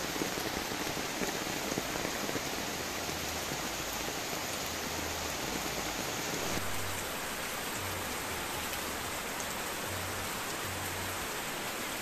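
Steady rain falling, an even hiss of many small drops striking surfaces, its tone shifting slightly a little past halfway.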